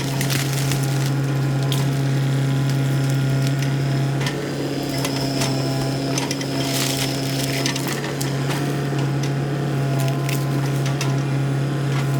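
Earth-moving machine's engine running steadily, with repeated metal clanks and rattles from the machine as it works.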